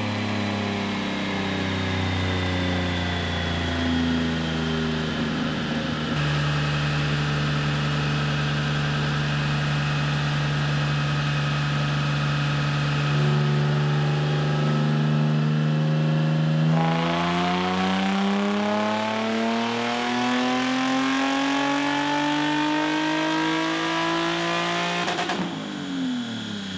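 Supercharged Nissan 350Z V6 running on a chassis dyno. The revs sink slowly at first and then hold steady for several seconds; about 17 seconds in the engine is pulled at full throttle, its pitch climbing smoothly for about eight seconds before the throttle is lifted and the revs drop away.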